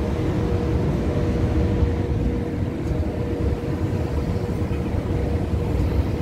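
Newag Impuls 36WEa electric multiple units running past at low speed. There is a steady rumble under a steady hum that fades about five seconds in.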